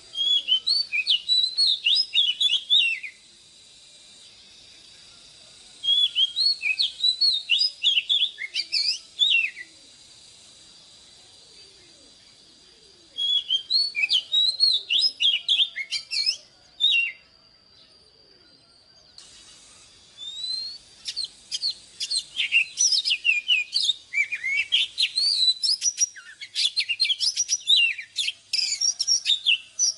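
Oriental magpie-robin singing in four bouts of rapid, varied phrases with short pauses between them, the last bout the longest.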